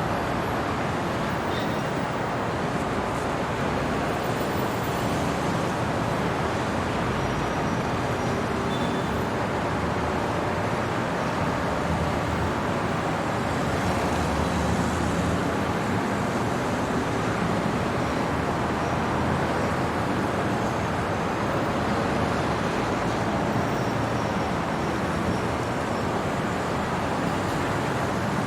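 Steady city road-traffic noise, a continuous wash of passing vehicles, swelling slightly about halfway through.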